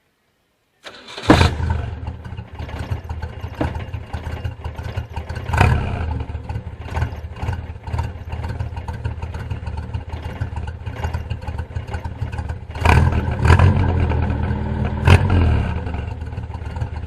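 Chevrolet Opala engine starting about a second in, then running loud and rumbling, with short revs about five seconds in and again twice near the end.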